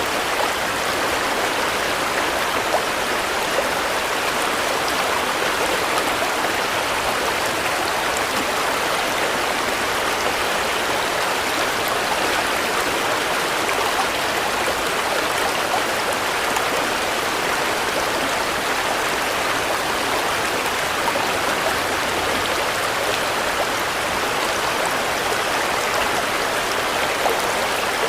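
Steady rain falling, an even wash of noise with many small drop ticks scattered through it.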